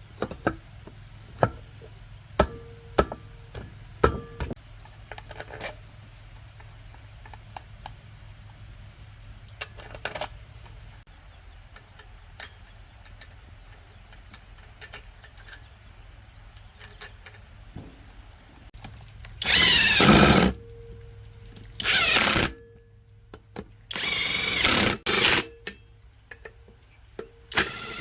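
Several short bursts of a handheld power tool, the loudest in the second half, after a run of light clicks and knocks from parts being handled.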